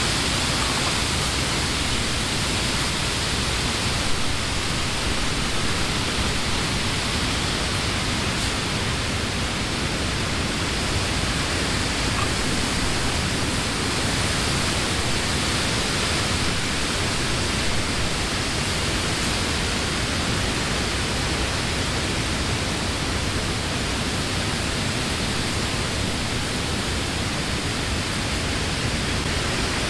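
Steady summer wind blowing through leafy trees, a continuous even rush of leaves with little rise and fall.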